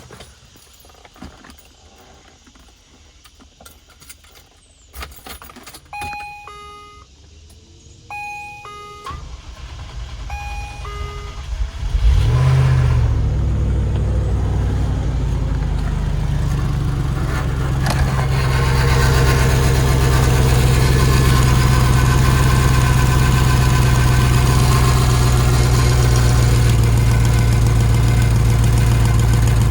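Clicks and a few short warning-chime beeps, then the starter cranks the 1989 Range Rover Classic's Rover 3.9 V8. It catches on a cold start about 12 seconds in and settles into a steady, fairly loud idle that rises a little around 18 seconds. The exhaust, split after the catalytic converter, is patched with hose clamps, and the engine sounds fairly reasonable.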